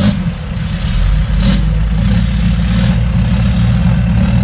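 Off-road 4x4 engine running with a steady low rumble at low revs.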